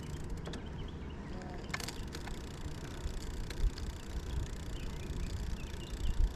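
Wind and tyre rumble from riding an e-bike, with sharp clicks about half a second and two seconds in and faint high chirps near the end.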